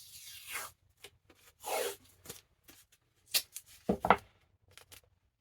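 Hands handling the book-repair materials: several short rustling swishes and rubs as something is pulled tight across the book's spine, with a sharper brief sound about four seconds in.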